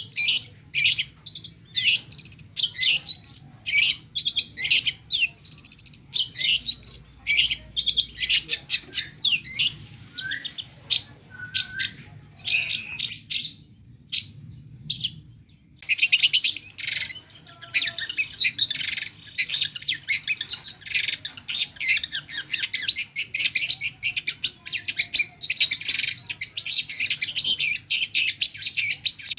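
Long-tailed shrike singing in full voice: quick, varied chirps, whistles and trills that mimic other birds' songs. There is a short lull about halfway, then a dense, very fast run of chattering notes.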